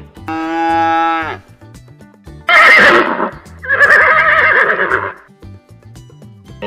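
Horse whinnying: a loud, harsh start about two and a half seconds in, then a long quavering neigh that fades out around five seconds, over background music. A shorter steady animal call comes near the start.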